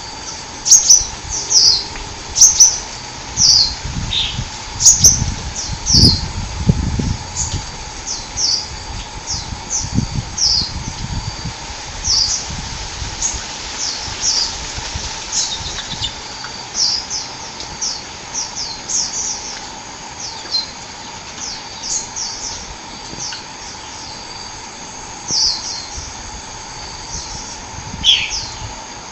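Small songbird sold as 'kolibri' (the Indonesian bird-keepers' name for sunbirds) chirping: a long run of short, high, sharply falling chirps, about two a second, over a steady faint hum.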